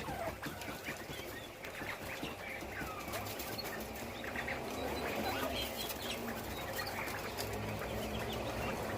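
Northern bobwhite quail giving soft, scattered short chirps and peeps, with faint clicks throughout.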